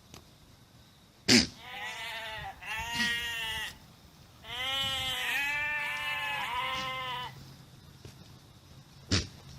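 A domestic goat bleating: a couple of short quavering bleats, then one long quavering bleat. A sharp knock comes just before the first bleat, and another near the end.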